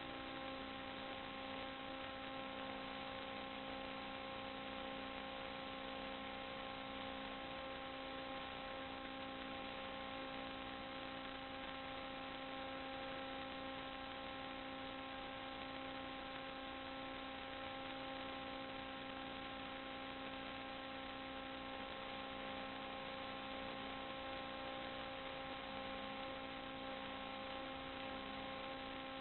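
Steady electrical hum of several even tones over constant hiss, unchanging throughout.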